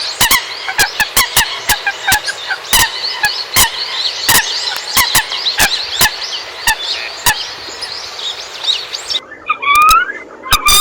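Common coots calling: a dense run of sharp, short calls, several a second. About nine seconds in, the sound changes abruptly to a few rising calls.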